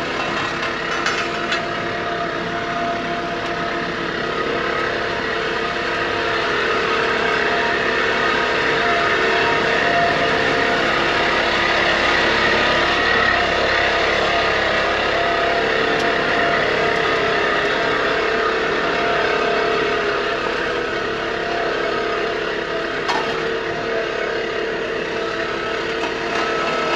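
A diesel engine of a Takeuchi skid steer, running steadily at high revs with a constant pitch.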